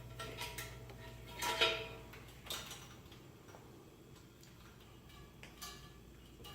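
Scattered light metallic clinks and clicks, some with a short ring, as metal hardware and tools are handled; the loudest comes about a second and a half in.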